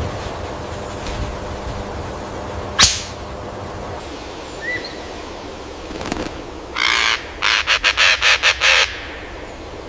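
A bird giving a run of harsh, raspy calls about seven seconds in: one longer call, then about six short ones in quick succession. A single sharp click comes about three seconds in, over a steady outdoor hiss.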